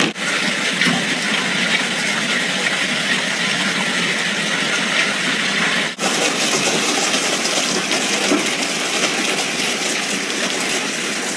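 Steady rushing water noise of a hailstorm downpour, with a brief break about six seconds in.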